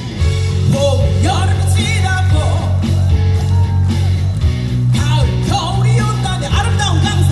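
Live band music with a singer's voice wavering in vibrato over steady bass and held chords.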